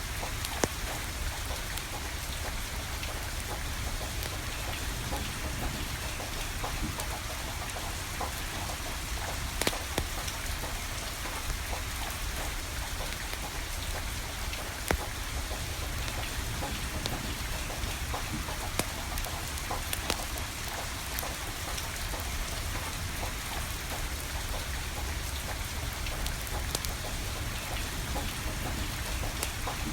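Steady rain falling, with a wood fire crackling through it: scattered sharp pops, a few of them louder.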